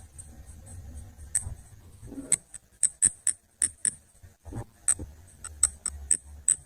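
A run of light, irregular clicks and clinks of small hard objects being handled, about a dozen over several seconds, over a low hum.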